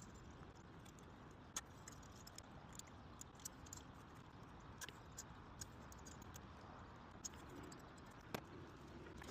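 Near silence: a faint steady low rumble with scattered small clicks and light taps, the sharpest about a second and a half in and another near the end.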